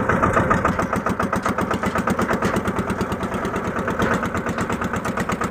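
Massey Ferguson tractor's diesel engine running steadily, with an even, rapid pulse of firing strokes.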